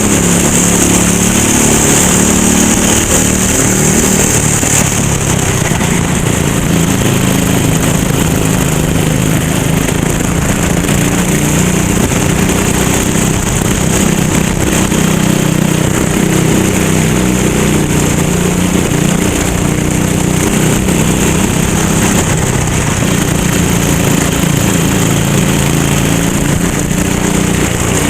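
Racing go-kart engine running hard at a fairly steady pitch that wavers only slightly, with a high hiss above it that is loudest in the first few seconds.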